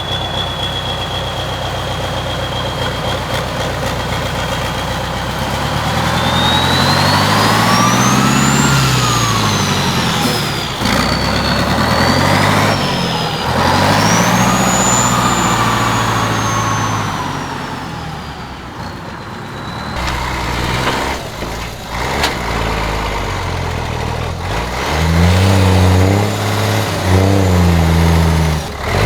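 Tatra 148 truck's diesel engine revving up and falling back twice under load, with a high whine that rises and falls with the revs. About two-thirds of the way through it gives way to a Liaz truck's diesel engine running and blipping its revs.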